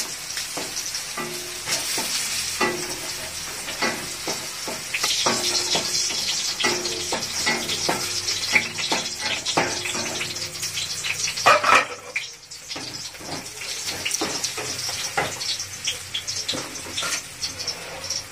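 Vegetables sizzling as they fry in oil in a metal kadai, with a wooden spatula stirring and knocking against the pan. The sizzle dips briefly about twelve seconds in.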